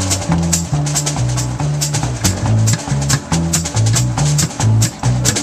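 Live band playing an instrumental passage: a stepping bass line under drums with steady cymbal strokes.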